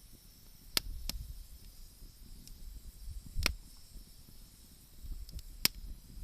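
Wood fire burning, with four sharp crackling pops over a faint hiss and a low rumble.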